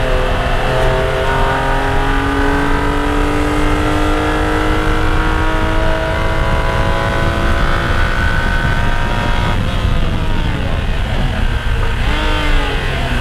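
BMW E46 M3's straight-six engine heard from inside the cabin, pulling hard at full throttle with its pitch climbing steadily for several seconds. About ten seconds in the note drops away as the throttle is lifted for braking, and quick rev blips follow near the end as the driver downshifts.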